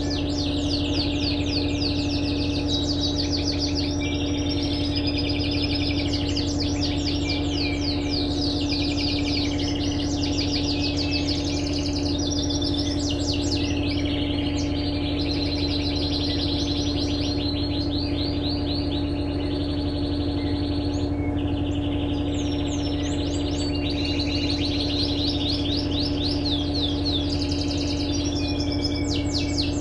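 A flock of small birds chirping rapidly and without pause, over a steady low mechanical hum.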